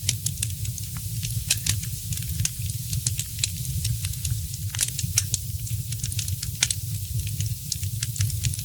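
Wood fire crackling in a fireplace: many irregular pops and snaps, several a second, over a steady hiss, with a low rumble underneath.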